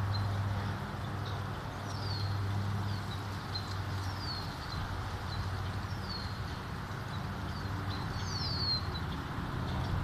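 A small bird calling repeatedly: short high whistled notes falling in pitch, about one a second, with brief high chips between them and a quick run of several near the end. A low steady hum lies beneath.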